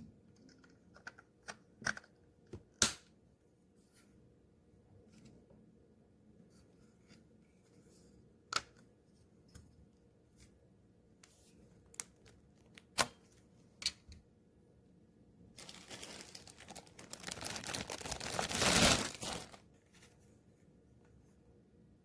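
Scattered light clicks and taps, then a few seconds of loud rustling that swells and stops.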